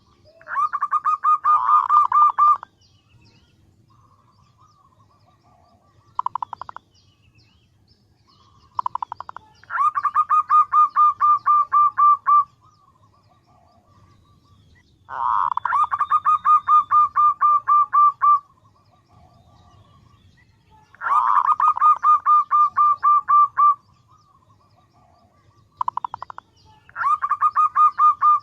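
Female zebra dove (perkutut) giving its calling song to attract males: repeated bouts of rapid staccato notes, about five a second. Each bout lasts two to three seconds and comes about every six seconds, some led by a short quick burst.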